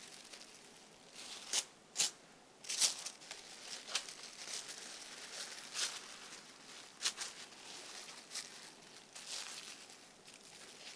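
Crinkling and rustling of something being handled, in a series of sharp crackles with a soft rustle between them.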